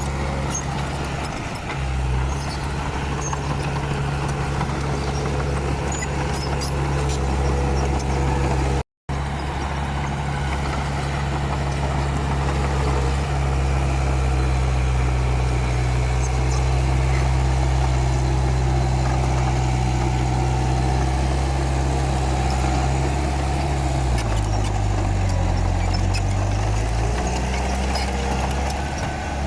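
Komatsu D31P bulldozer's diesel engine running steadily at working speed, with light clatter over it. Its note drops for a few seconds near the end, then climbs back up. There is a split-second break in the sound about nine seconds in.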